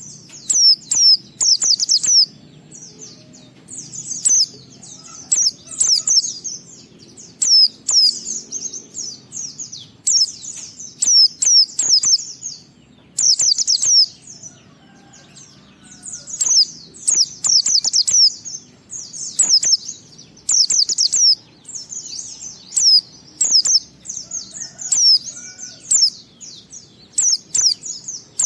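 White-eye (pleci) singing: rapid, high-pitched chattering phrases of a second or two with short breaks between them, the long continuous 'ngalas' style of song.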